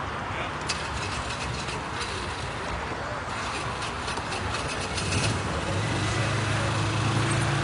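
Steady outdoor background noise with scattered light clicks, then an engine starts running with a steady low hum about six seconds in.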